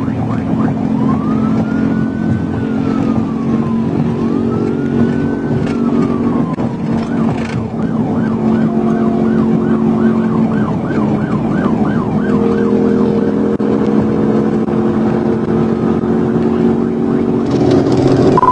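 Police car siren sounding over the steady drone of the patrol car's engine running at high speed: two long rising-and-falling wails, then a switch to a fast yelp for a few seconds about halfway through.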